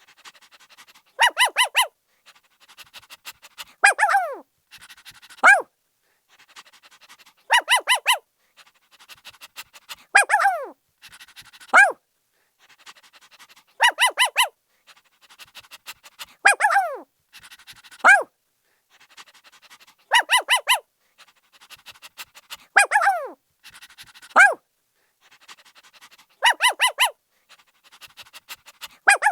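A puppy barking in high-pitched yaps: a quick burst of two or three yaps, a yelp that falls in pitch, then a single yap, with soft panting between. The same sequence repeats about every six seconds, like a loop.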